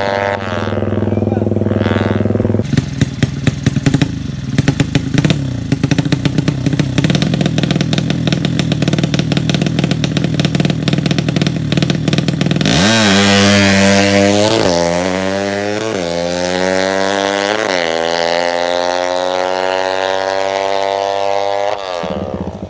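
Tuned 200cc drag-racing motorcycle engine: a steady engine note, then a long stretch of rapid, rattling firing pulses. About halfway through it accelerates hard, its pitch climbing and dropping back at each upshift four or five times before it cuts off near the end.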